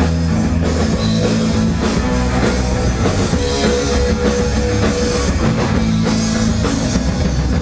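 Punk rock band playing live: an instrumental passage between vocal lines, with guitars, bass and drum kit and no singing.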